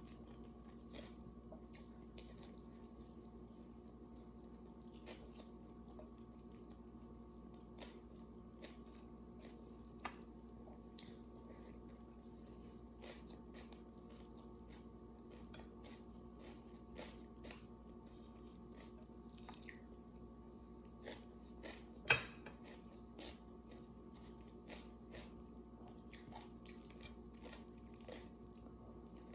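A person chewing food close to the microphone, with many small wet clicks and smacks scattered throughout. There is one sharper tap about three-quarters of the way through.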